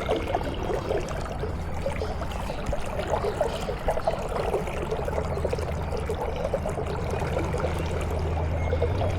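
Shallow river water flowing and babbling close by, with a dense crackle of small splashes, over a steady low hum.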